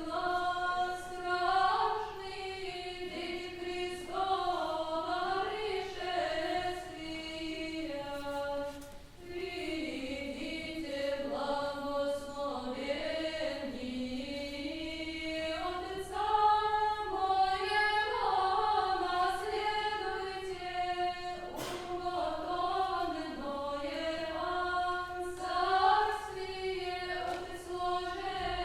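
Choir singing old Russian music in high voices, a chant-like melody moving in small steps.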